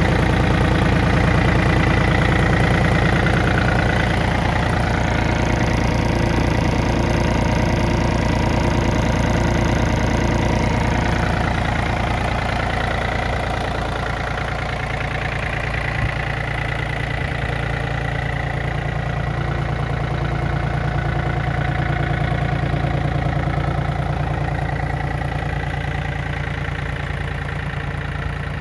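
Yanmar F215D compact tractor's three-cylinder diesel engine running steadily, easing a little quieter about halfway through.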